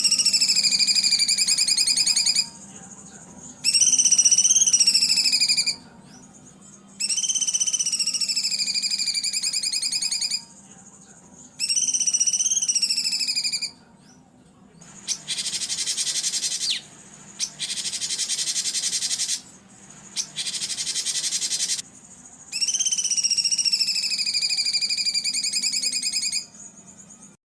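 A songbird's recorded training song in repeated phrases of about two to three seconds with short pauses: fast trills that rise and then fall in pitch, and three harsher rasping bursts in the middle.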